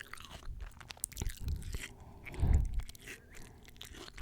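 Close-miked eating sounds of fresh fruit: crisp bites and chewing, irregular crunches with the loudest one about two and a half seconds in.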